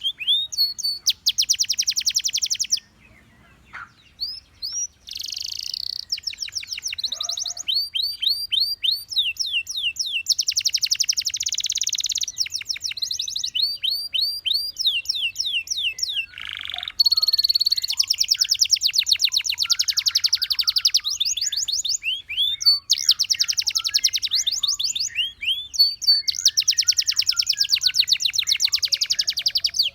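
Gloster canary singing: rapid trills alternating with runs of repeated sweeping whistled notes, with a short pause a few seconds in.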